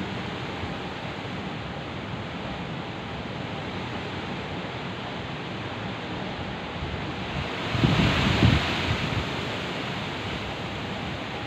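Steady heavy rain, with a short burst of thunder about eight seconds in.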